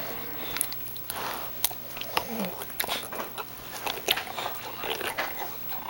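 Bulldog chewing on a toy: irregular clicks and bites, with a short low grunt about two seconds in.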